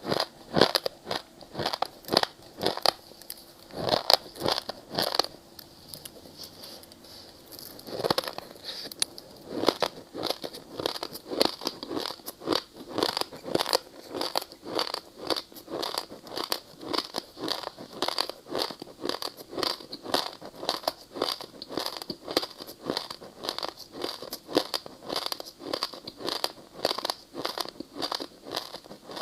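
A person biting and chewing ice: a few separate sharp crunches, then from about nine seconds in a steady run of rapid crunching chews, several a second.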